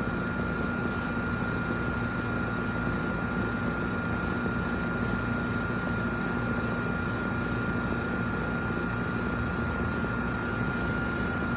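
Trane XR13 outdoor air-conditioner unit running steadily: its compressor and two-bladed condenser fan give a constant hum with a steady high whine above it.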